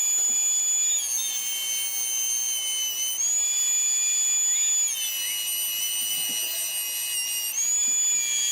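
Whining power tool motor running steadily. Its pitch sags twice as wood is fed through and the motor comes under load, then climbs back as it frees up.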